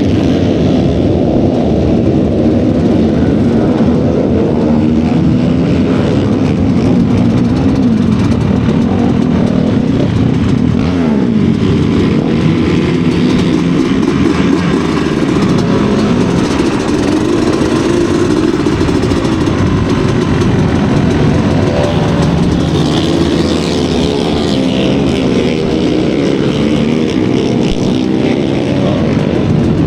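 Studded-tyre racing motorcycles running on ice, their engines revving up and down in the race.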